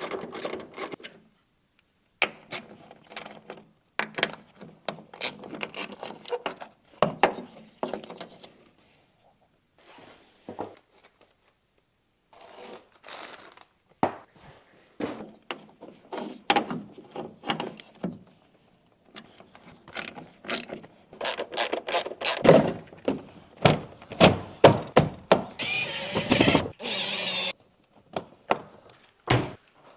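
Irregular metallic clicks, ratcheting and clunks of hand tools working on a car door's mechanism, with quiet gaps between. Near the end comes a steady hiss lasting about a second and a half.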